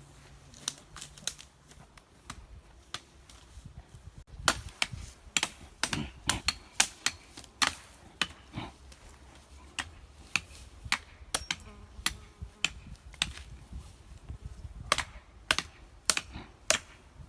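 Firewood being chopped and broken up by hand: irregular sharp wooden knocks and cracks, a few at first, then clusters of several a second from about four seconds in.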